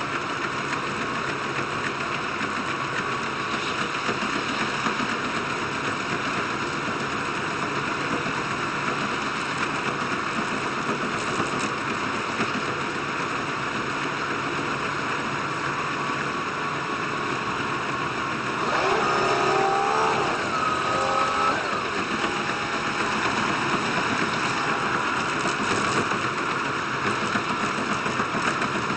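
Diesel train running noise heard inside the carriage, a steady rumble and rush. About two-thirds of the way through, a brief wavering pitched sound rises above it.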